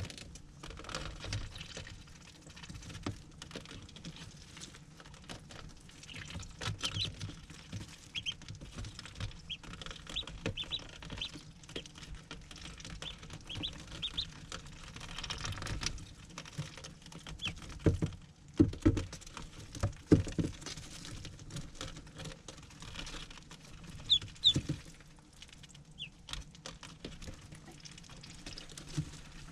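Ducklings peeping in short, high chirps, over a constant pattering of small taps and scratches, with a few louder knocks past the middle.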